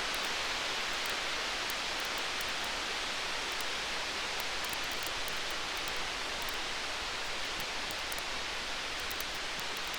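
Campfire burning with a steady hiss and frequent small, sharp crackles. No thunder rumble rises in this stretch.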